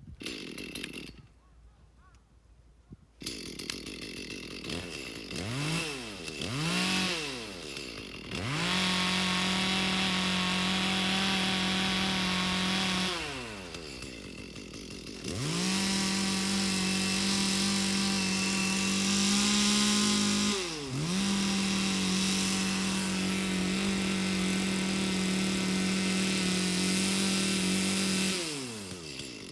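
Two-stroke chainsaw revving and cutting logs: a couple of short throttle blips, then three long spells at full throttle, each dropping back to idle between cuts.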